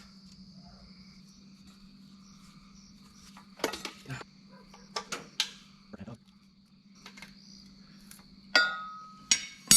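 Metal engine parts and hand tools clinking and knocking while the cam plate is being taken off a Cummins C160 diesel, with a loud ringing clang of steel near the end.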